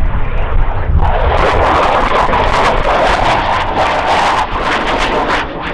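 Jet aircraft roaring past. A loud roar with crackle comes in sharply about a second in and eases off near the end, over low wind rumble on the microphone.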